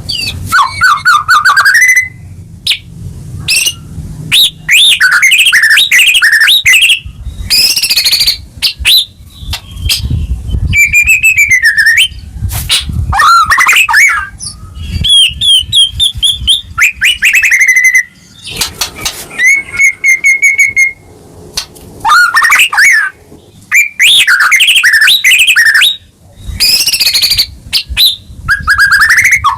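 White-rumped shama (murai batu) in full song: loud, varied phrases of sliding whistles, fast trills and rapid repeated notes, with short pauses between them, and one steady held whistle about two-thirds of the way in.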